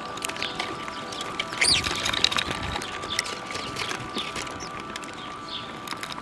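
Small birds chirping and twittering in many short calls, with one louder call that slides down in pitch about a second and a half in.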